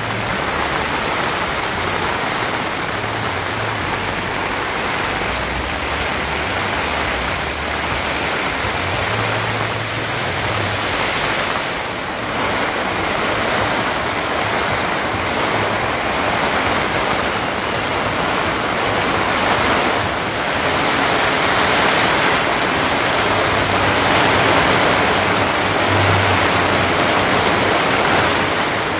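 Heavy rainstorm: a loud, steady rushing that grows a little louder in the last third.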